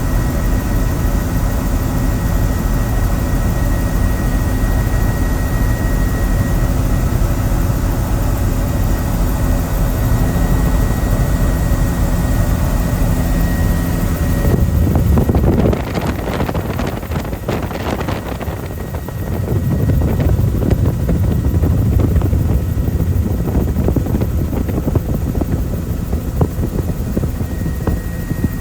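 Helicopter running steadily in flight, its engine and rotor giving a constant drone. About halfway through the sound turns rougher for a few seconds and drops in level, then steadies again.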